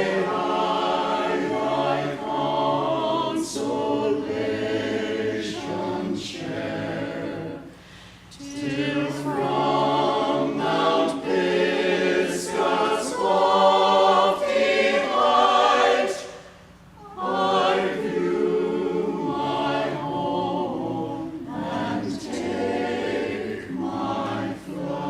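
A group of voices singing together in long sustained phrases, broken by short pauses about 8 and 17 seconds in.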